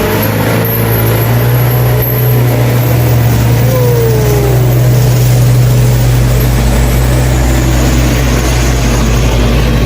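Truck engine running at steady revs, a loud low drone, with a brief falling whine about four seconds in.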